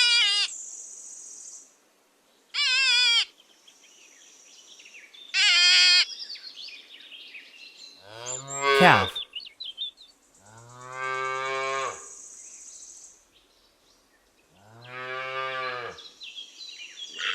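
A calf mooing twice in the second half, each low call lasting about a second and a half. Earlier, three short, high, quavering cries are heard.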